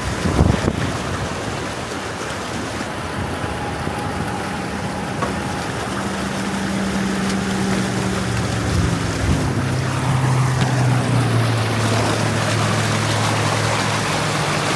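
A steady rushing noise with a thump about half a second in, then a motor hum that comes in about six seconds in and drops to a lower pitch around ten seconds in.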